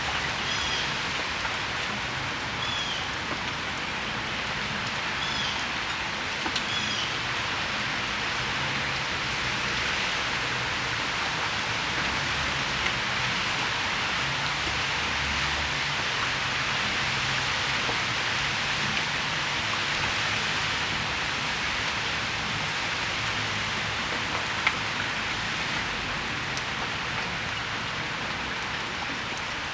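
Steady rain falling on a patio and its surroundings, an even hiss with the odd sharper drop. In the first several seconds a bird chirps a few times.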